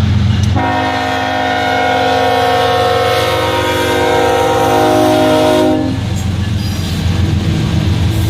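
Train horn sounding one long blast of several tones at once, from about half a second in until near six seconds, over the steady low rumble of a passing train.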